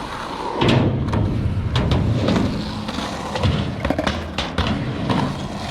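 Skateboard wheels rolling on concrete, a steady rumble with several sharp clacks of the board.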